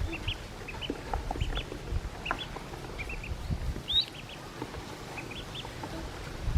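Newly hatched Pekin ducklings peeping: many short, high peeps in small clusters, with one louder, rising peep about four seconds in. Low knocks and bumps sound underneath.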